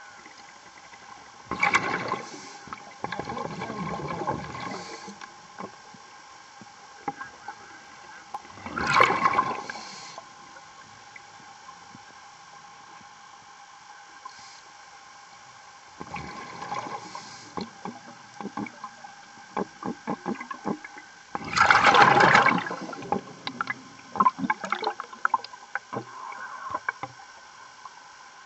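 Underwater bubbling: rushes of exhaled bubbles from a diver's breathing gear, three loud ones several seconds apart with crackling in between, over a faint steady hum.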